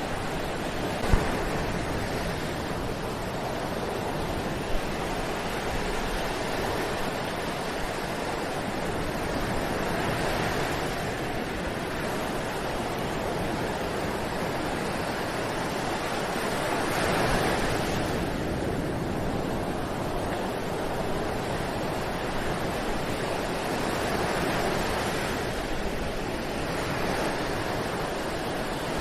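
Ocean surf washing onto a beach, a continuous rush that swells as each wave comes in, about every seven seconds. A sharp click sounds about a second in and another near five seconds.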